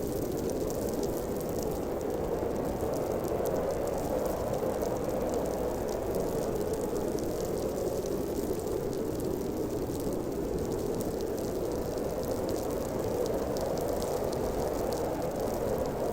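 Snowstorm wind blowing hard and steadily: a dense, even rushing noise centred low in pitch, with a low rumble under it.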